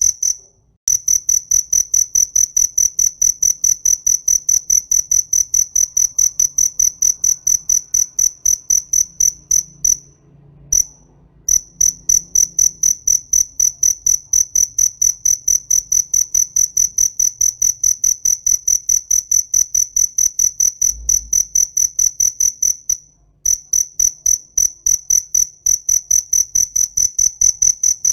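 A cricket chirping loudly and close: a high, pure-pitched chirp repeated evenly about four times a second in long runs, with a few short pauses.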